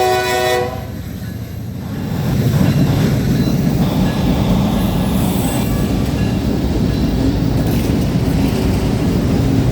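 A freight locomotive's multi-chime air horn holds a chord and cuts off under a second in. The train then rolls past with a loud, steady low rumble of wheels on rail that builds up about two seconds in.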